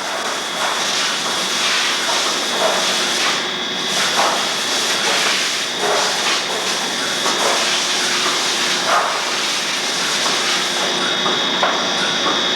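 Milking machine vacuum system running: a steady hiss with repeated soft pulses from the pulsators.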